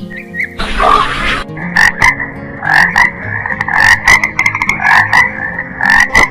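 An animal calling in a run of short, repeated calls, a few each second, after a brief noisy rush near the start.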